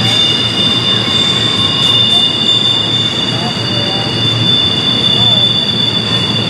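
Double-stack intermodal freight train rolling past on a tight curve, its wheels squealing steadily in several high tones over the low rumble of the cars.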